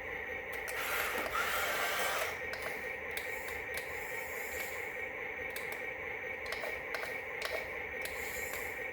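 A small toy motor whirring steadily with scattered clicks, and a louder rushing noise for about a second near the start.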